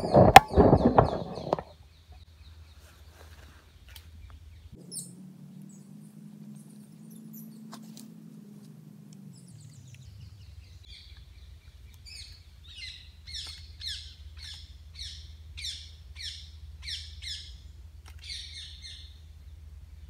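A bird calling in a run of about a dozen short, repeated notes, roughly two a second, in the second half. It opens with a second or two of loud rustling and knocking as a camera with a long lens is set on a tripod, and a faint low hum comes and goes in between.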